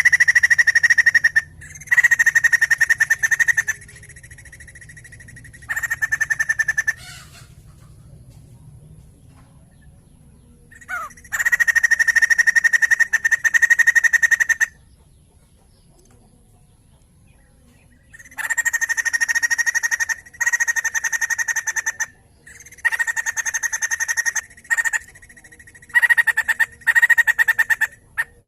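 White-crested laughingthrush (poksay jambul) calling in loud bursts of rapid, rattling chatter, each burst one to three seconds long with short pauses between, and a longer pause about halfway through.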